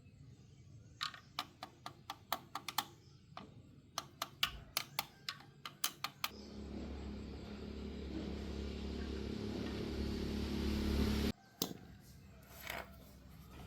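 Around a dozen sharp clicks or taps, then a steady electric-motor hum that grows louder for about five seconds and cuts off suddenly, followed by a couple more clicks.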